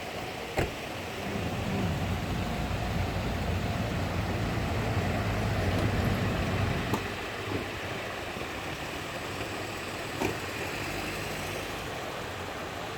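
A motor vehicle's engine running as it passes close by, rising for a few seconds and then fading back into steady street noise. A few short sharp clicks or knocks stand out from the background.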